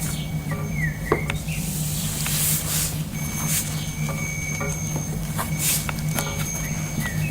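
Soft chimes ringing in held high tones, with a few short bird chirps and scattered light clicks over a steady low hum.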